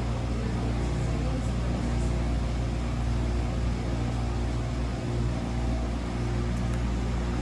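Wascomat Senior W125 35-pound commercial washing machine running mid-cycle, a steady low machine hum.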